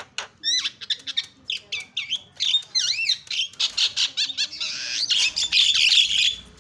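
Javan myna (jalak kebo) calling: a fast string of short whistles and looping, up-and-down notes, breaking into harsh, scratchy squawking chatter in the last second or so.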